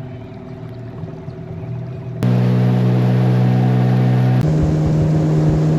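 A boat's outboard motor running steadily while trolling. It turns abruptly much louder about two seconds in, and its pitch shifts abruptly again a couple of seconds later.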